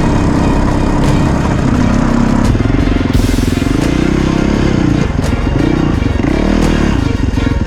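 Dirt bike engine running and revving up and down, its pitch wavering through the middle stretch.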